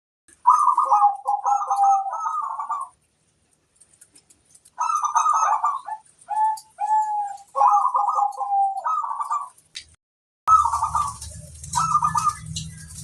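Zebra dove (perkutut) cooing: several phrases with short gaps between, each a quick run of notes ending in a longer held coo. From about ten seconds in, a low hum and a hiss sit under the song.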